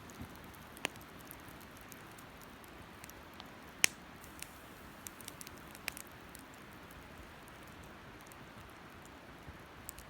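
Wood campfire crackling: a low steady hiss with scattered sharp pops, the loudest about four seconds in.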